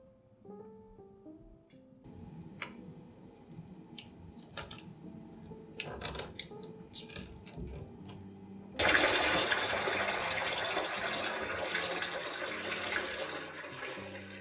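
Soft background music with scattered clicks and knocks, then, about nine seconds in, a sudden loud rush of running water that slowly eases toward the end.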